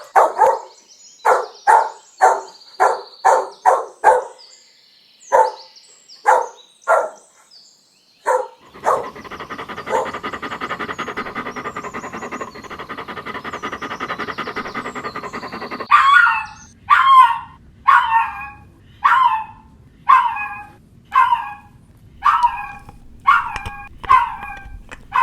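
Dogs barking: a quick run of short barks, about two a second, for the first eight seconds. Then comes a dense stretch of overlapping noisy sound lasting about eight seconds, followed by a series of higher-pitched yips, about one a second.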